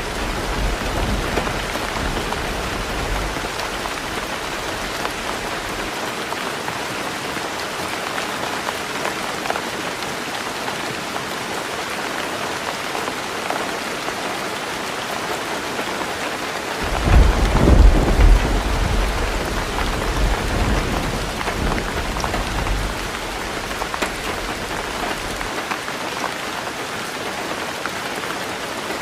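Heavy rain falling steadily on a tin roof. A low thunder rumble fades out in the first few seconds, and a louder peal of thunder breaks about 17 seconds in and rolls away over the next several seconds.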